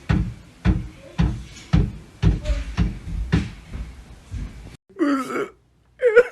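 Steady rhythmic knocking, about two sharp knocks a second, that stops abruptly near the end.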